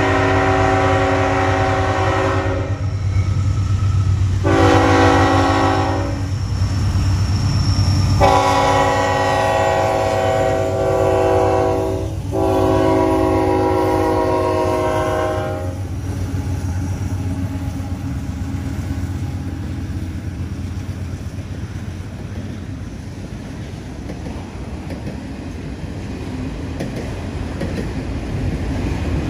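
Freight train air horn sounding for a grade crossing in four blasts: one already sounding at the start, a short one, then two long ones back to back that stop about 16 seconds in. Under the horn is the low drone of the diesel locomotives, and after it the autorack cars roll past with a steady rumble and clatter of wheels on rail.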